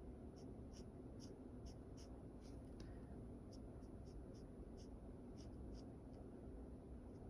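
Drawing tool scratching on paper in short sketching strokes, about two a second with brief pauses, over a faint steady hum.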